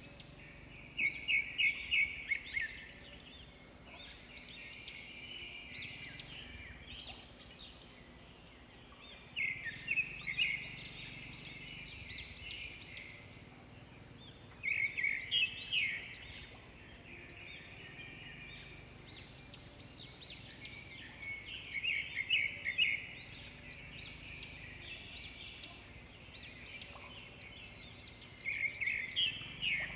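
Wild birds calling: five loud bursts of fast chattering notes, a few seconds apart, with quieter calls between them, over a low steady rumble.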